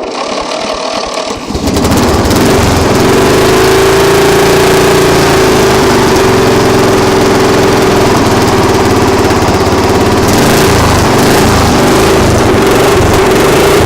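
Vehicle engine running cold after sitting unstarted for a couple of weeks. Its sound builds over the first two seconds, then holds loud and even with a steady hum.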